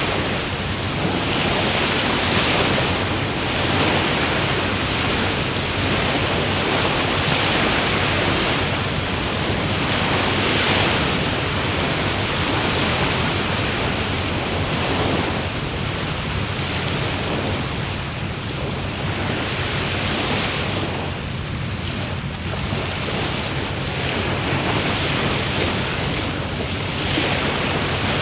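Wood bonfire burning with a steady rushing hiss that swells and eases every couple of seconds, a few faint crackles, and a steady high-pitched tone over it.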